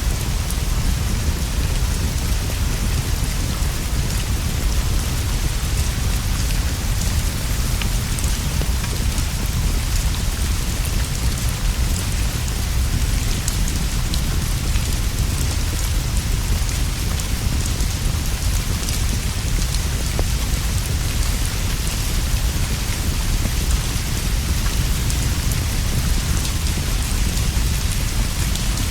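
Steady rain falling without a break, over a constant deep rumble, with scattered small ticks through the hiss.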